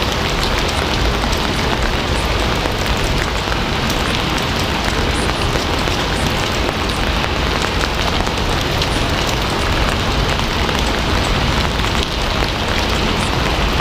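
Steady heavy rain falling on a surface, a dense even hiss dotted with many small drop ticks.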